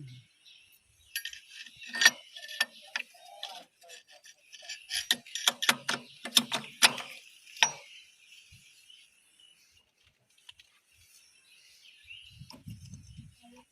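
Steel parts of a power tiller gearbox clinking and knocking as a gear-shift fork and its detent ball and spring are worked into place, in scattered bunches of sharp taps for the first several seconds, then quiet.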